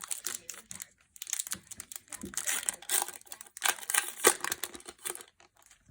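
Foil booster pack wrapper crinkling in the hands in irregular crackly bursts as it is torn open, easing off near the end.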